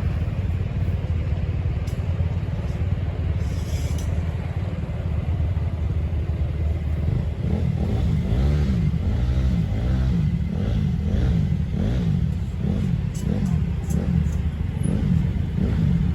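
Motorcycle engine running over a steady low rumble. From about halfway through it is revved up and down again and again in quick blips.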